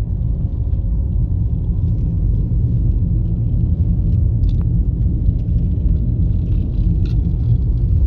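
Steady, loud low rumble of a car driving on the road, mostly tyre, road and engine noise.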